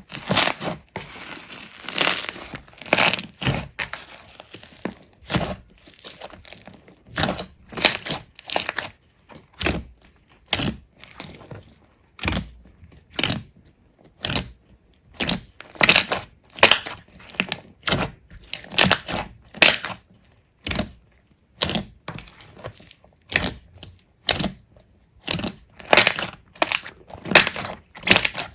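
Hands squeezing and pressing slime: a steady series of short crackling, crunching squishes, about one or two a second.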